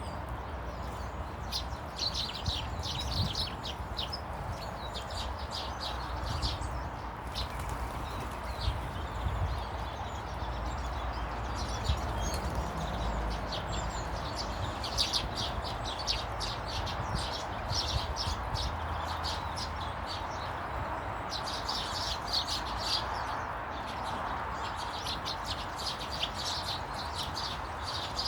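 Small birds chirping and twittering in bouts of rapid high notes, a few seconds at a time, over a steady background hiss and low rumble.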